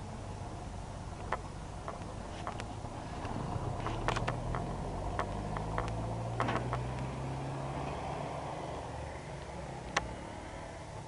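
A vehicle engine running low and steady, swelling for a few seconds in the middle and then fading, under a steady background noise. Scattered sharp clicks, with one louder knock near the end.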